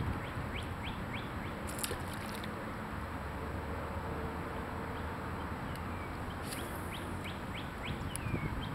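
A songbird singing: a run of short, quick downward-slurred notes, about five a second, about a second in and again near the end, over a steady low background hiss.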